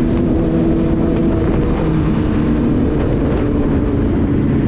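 Car engine and exhaust droning at highway speed, its pitch stepping up and down a few times, over a heavy low road rumble.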